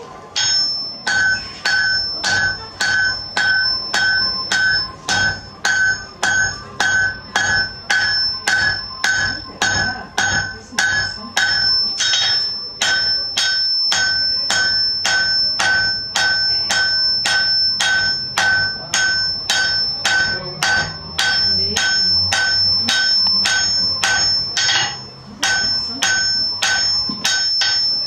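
Blacksmith's hammer striking metal on an anvil in a steady rhythm, about two blows a second, each blow leaving a bright high ring. The hammering starts about half a second in and pauses briefly near the end.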